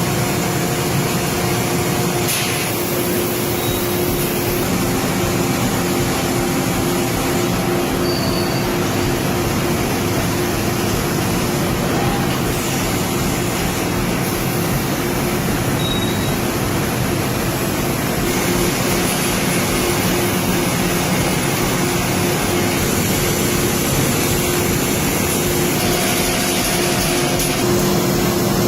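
CNC machine running while machining bearing rings: a steady mechanical drone with a constant tone over it.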